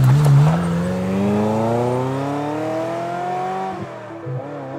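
Ferrari F355 Challenge's 3.5-litre V8 accelerating hard away, its pitch climbing steadily through one gear. Near the end it dips at an upshift and starts climbing again, fainter as the car draws away.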